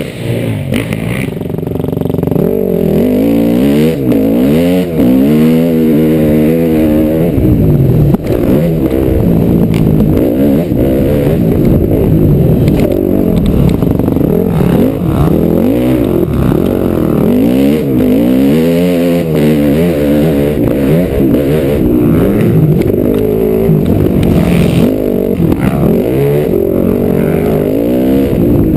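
KTM 250 SX-F four-stroke single-cylinder motocross engine revving hard, its pitch rising and falling over and over as the throttle opens and closes. Short clattering knocks come through over the engine.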